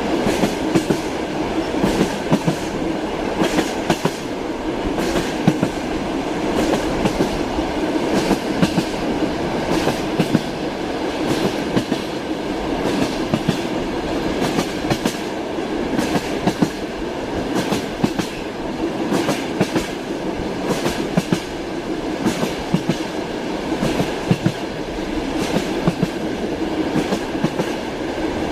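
Train wheels clattering over rail joints: a steady rolling rumble and hum with frequent sharp clicks, often coming in quick groups.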